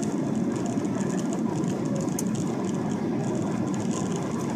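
Steady cabin noise inside a Boeing 777-200ER airliner descending on approach: the even sound of its engines and the air rushing past the fuselage.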